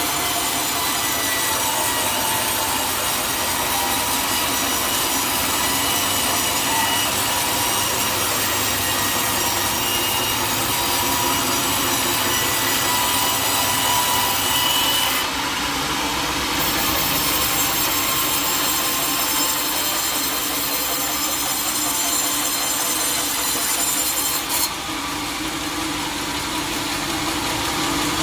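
Sawmill saw cutting teak wood: a steady, loud cutting noise with a thin high whine over it. The high part of the sound shifts abruptly twice, about halfway through and again near the end.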